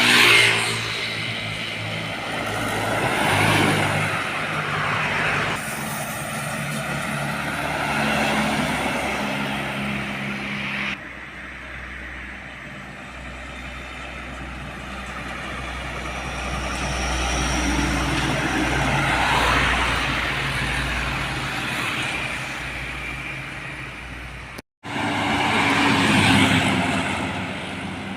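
Heavy trucks passing one after another on a road, their diesel engines rising and falling as each goes by. A long low engine rumble runs through the middle, and the sound cuts off abruptly twice.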